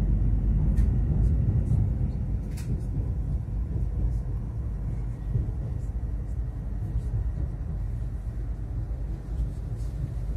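Stadler EШ2 double-decker electric train running on the rails, a steady low rumble heard from inside the carriage, getting a little quieter over the first few seconds, with faint scattered clicks.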